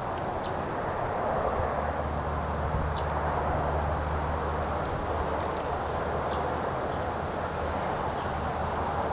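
Steady outdoor background noise, a low hum under an even hiss, with faint brief high chirps scattered throughout.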